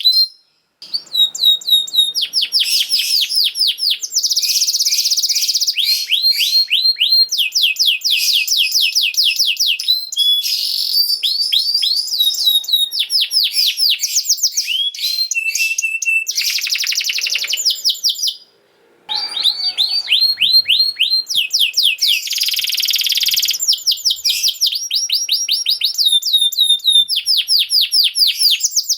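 Domestic canary singing a long song of fast repeated trills and rolls, the notes sweeping high and rapid. It breaks off briefly about half a second in and again about two-thirds of the way through.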